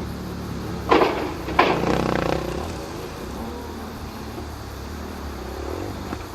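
Motocross dirt bike engines running in a steady drone, with two loud sudden bursts of noise about a second in and again just over half a second later.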